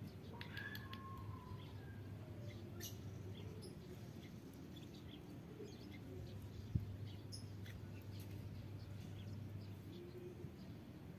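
Lovebirds chirping faintly and intermittently, short high chirps and whistles over a steady low hum, with a single sharp knock about two-thirds of the way through.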